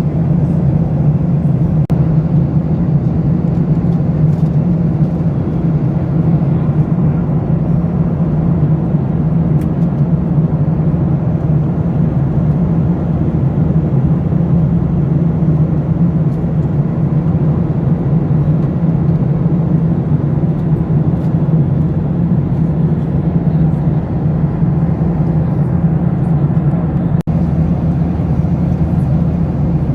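Steady cabin noise of a Boeing 737-800 in cruise: a constant low drone of airflow and engines. One brief click near the end.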